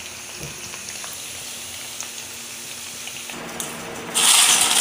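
Macaroni deep-frying in hot oil in a kadai: a steady light sizzle. A little over three seconds in it changes to a much louder rustling rattle as crisp fried macaroni is tossed by hand in a steel bowl.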